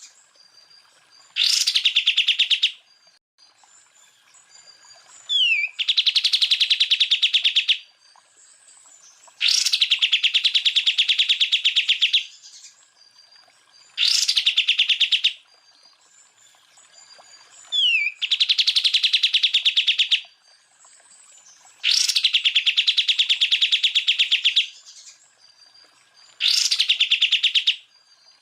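Cucak ijo (green leafbird) singing a run of 'tembakan' phrases: about seven loud bursts of very rapid, rattling buzzy notes, each one to three seconds long and spaced about four seconds apart, with a short falling whistle twice in the gaps.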